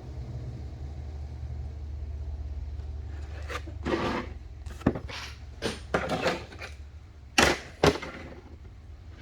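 Trading cards being handled and flipped: a string of short sliding and slapping strokes, two sharper snaps near the end, over a steady low hum.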